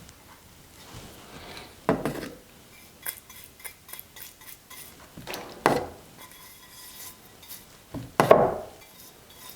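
Clinks and knocks of ceramic cups and glazing tools being handled and set down on a bench: three louder knocks, about two, five and a half and eight seconds in, with lighter clicks between them.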